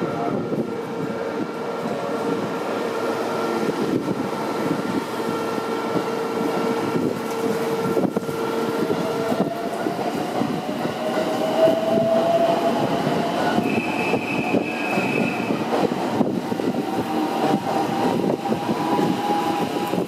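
Marine Liner electric train running on the rails with a steady rumble. From about halfway, its motor whine rises slowly in pitch as it gathers speed.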